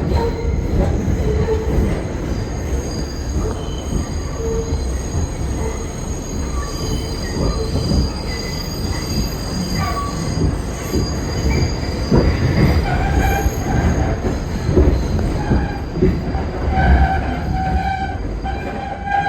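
R62 New York City subway car running along the track: a heavy rumble and clatter of wheels on rail, with high-pitched wheel squeal through the middle and a steadier pitched whine near the end.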